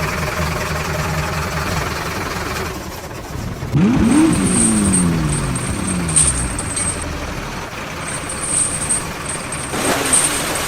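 Truck engine running steadily, then revving about four seconds in: the pitch shoots up and falls away over about two seconds.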